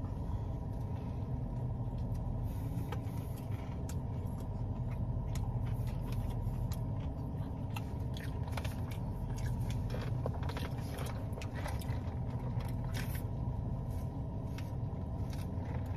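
A man chewing a crispy fried chicken sandwich, with scattered wet mouth clicks, over a steady low hum inside a parked car.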